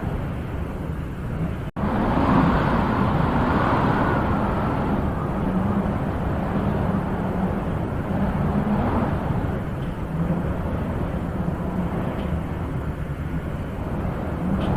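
Wind blowing steadily in gusts that swell and ease, with a stronger gust a couple of seconds in. The sound cuts out for an instant about two seconds in.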